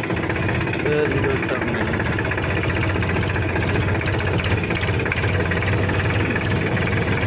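Four-wheel-drive tractor's engine running steadily while driving along.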